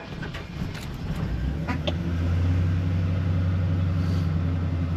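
Pickup truck engine freshly started from a cold soak in sub-zero weather. It runs with a low, even hum that builds over the first two seconds, then holds at a steady idle as it warms up.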